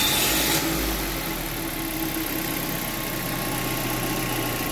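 2006 Mazda 3's four-cylinder engine just after starting, heard close up at the belt end of the engine. It is a little louder for about the first second, then settles into a steady idle. This is its first run on a newly fitted serpentine belt, AC belt and tensioner.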